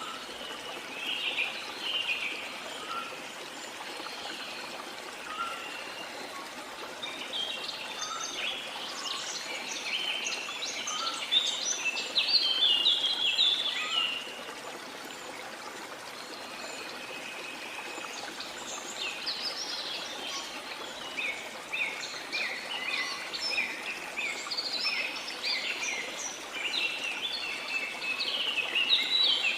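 Rain forest birds chirping and singing in bouts over the steady rush of a flowing river. The birds are busiest in the middle and again near the end.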